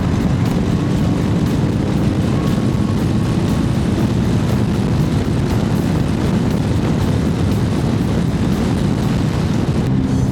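Honda CB1100's air-cooled inline-four engine running steadily at cruise under a steady rush of wind, a continuous drone with no change in pitch.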